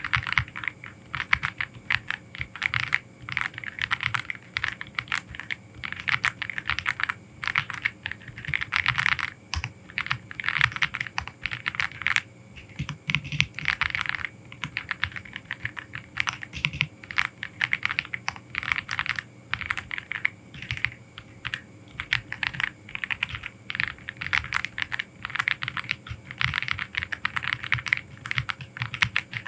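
Aula F87 Pro mechanical keyboard being typed on, fast keystrokes clicking in quick runs with brief gaps.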